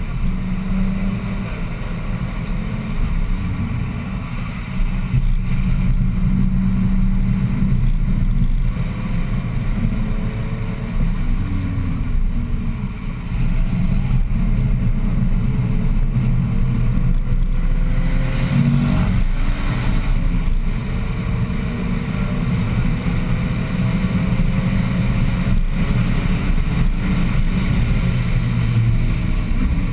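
BMW 1M's twin-turbo 3.0-litre inline-six driven hard on a racetrack, heard from inside the cabin. The engine note climbs slowly and drops back several times as the driver shifts and lifts, over steady road and wind noise.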